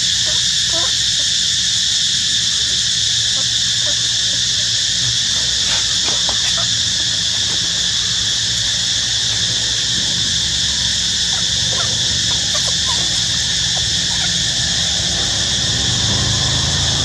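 Steady, high-pitched drone of an insect chorus in a humid forest, with faint short chirps and calls scattered through it.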